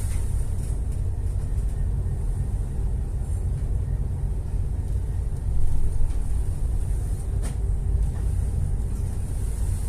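Ship's engine running with a steady low rumble. It swells briefly about six seconds in, and a single sharp click comes just after.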